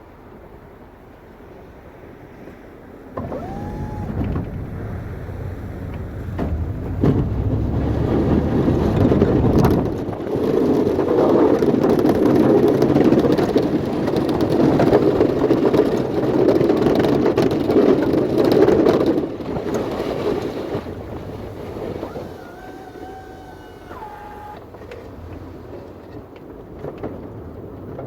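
Engine of a snow-removal machine working under load. It starts about three seconds in, builds to a loud, steady noisy running through the middle, then eases off near the end, with a brief rising whine at the start.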